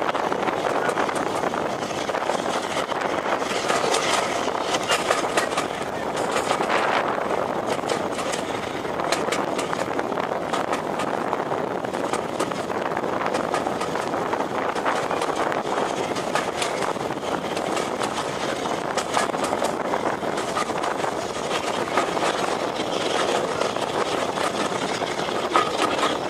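A train on the move: a steady rushing noise with many short sharp clicks and knocks running through it.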